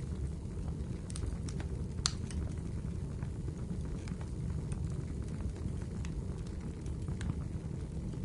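Wood fire in a fireplace crackling over a steady low rumble of the flames, with scattered sharp pops, the loudest about two seconds in.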